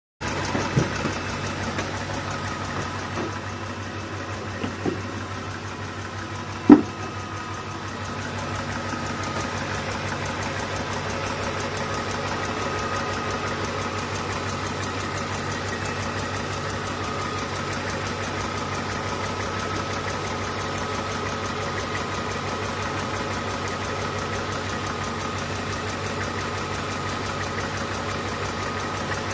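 Engine idling steadily, heard from underneath. A few light clicks early on, one loud sharp knock about seven seconds in, and the engine note grows a little louder about eight seconds in.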